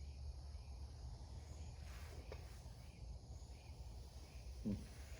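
Faint steady chirping of crickets over a low steady hum, with a light click a little over two seconds in.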